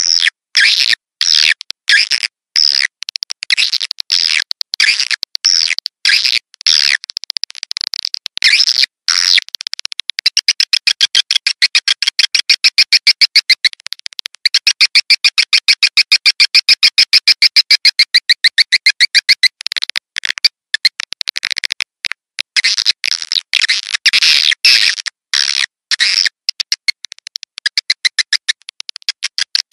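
Swiftlet lure call: recorded swiftlets twittering in rapid high chirps, in quick broken runs. A long, very fast trill runs through the middle for about ten seconds, broken once.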